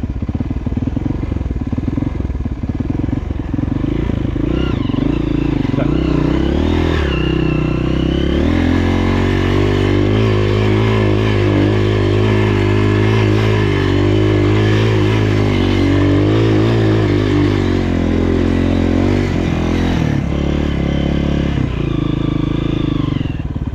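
Honda CRF230F dirt bike's single-cylinder four-stroke engine running under load on a trail ride. The pitch shifts with the throttle in the first several seconds, holds steady through the middle, and changes again near the end.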